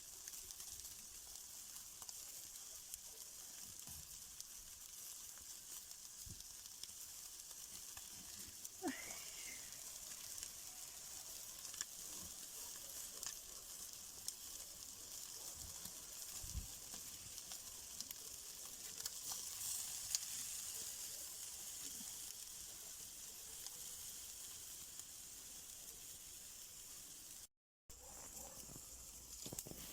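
Food sizzling on a grill over a wood fire: a steady high hiss with scattered small crackles, and one brief squeak about nine seconds in.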